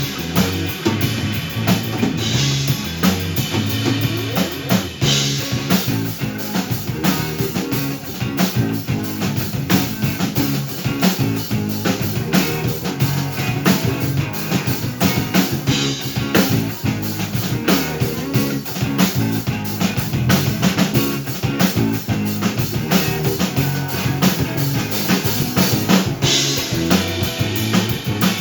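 A rock band playing an original song, with the drum kit driving a steady beat on bass drum and snare, and cymbal crashes at the start, a few seconds in, and near the end.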